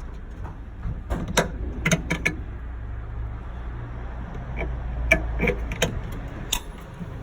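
Short metallic clicks and knocks of hand tools and parts being handled during work on a car, about nine in two clusters, over a steady low hum.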